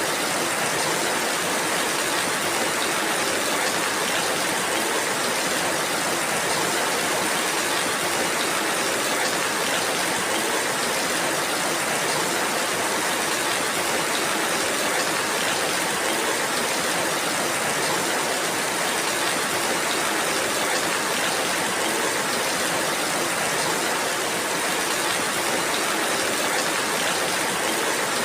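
Steady rain falling, a dense even hiss of many drops without let-up.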